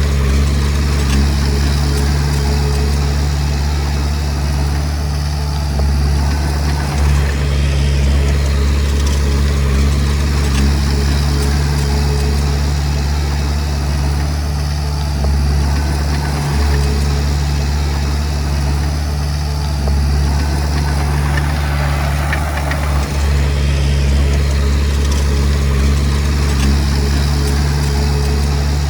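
Komatsu D20P bulldozer's diesel engine running steadily, its low note shifting slightly every few seconds.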